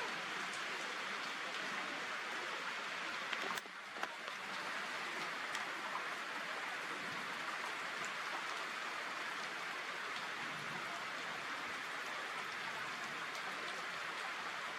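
Steady rain falling, an even hiss with scattered drop ticks; a sharp click about three and a half seconds in, then the rain briefly drops away before returning.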